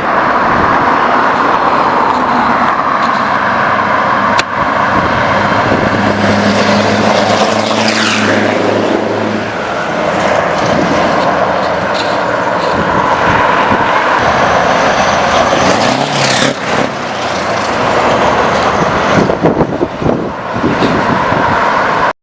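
Scania R-series truck with a straight-piped exhaust, the engine running loud, with sweeping rises and falls in pitch about eight seconds and again about sixteen seconds in.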